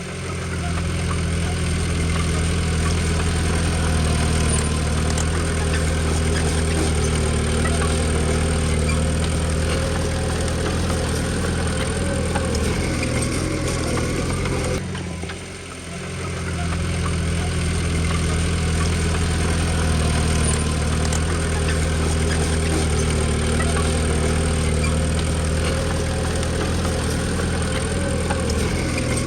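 Diesel engine of a Komatsu D20P bulldozer running steadily at work, its level dipping briefly about halfway through before coming back up.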